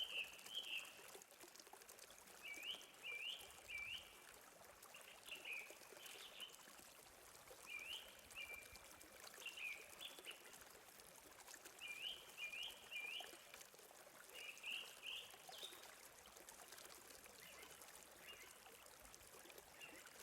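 A small bird calling in short chirping phrases, repeated every second or two, over a faint steady hiss of running water.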